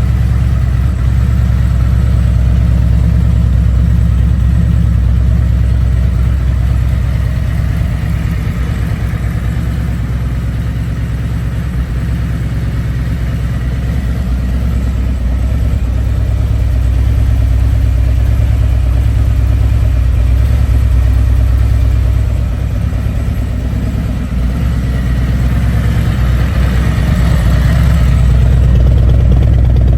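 Harley-Davidson Road King's V-twin engine running at idle through Vance & Hines Hi-Output slip-on mufflers. The level dips briefly about two-thirds of the way through and rises again toward the end.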